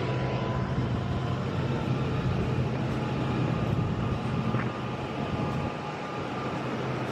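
Steady low hum and rumble of a running vehicle, with no clear change in pitch.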